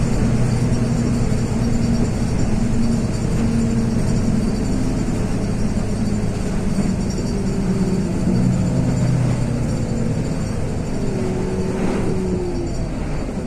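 LiAZ 6213.22 articulated city bus heard from inside the cabin while driving: a steady diesel engine hum under drivetrain noise, with a whine that slowly falls in pitch over the second half.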